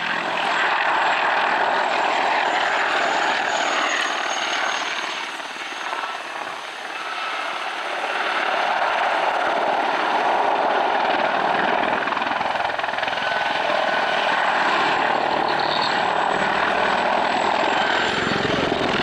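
Mil Mi-28NM attack helicopter flying a display pass: steady turbine and rotor noise with a faint high whine. The noise dips briefly around six seconds in, then comes back louder.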